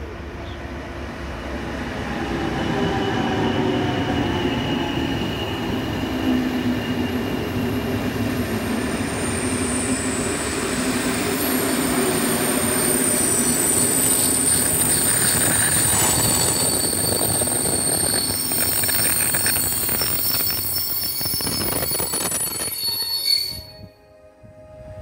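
Bombardier Traxx electric locomotive hauling passenger coaches past on the platform track, a rumble and low hum growing louder as it nears. From about eight seconds in, the coaches' wheels run by with steady high-pitched metallic squealing. The sound cuts off suddenly near the end.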